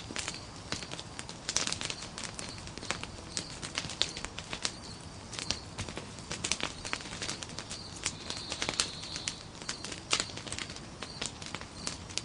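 Nodya log fire crackling, with irregular sharp pops and snaps over a faint steady hiss.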